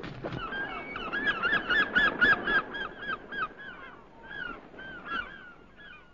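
A bird calling in a rapid series of short notes that each rise and fall, about five a second, then slowing to a few spaced calls that fade near the end.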